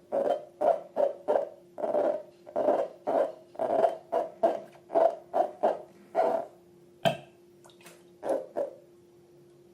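Slime being squeezed and kneaded by hand, squelching and popping in quick rhythmic pulses about three a second. The pulses stop about two-thirds of the way in, followed by a sharp click and two last squelches.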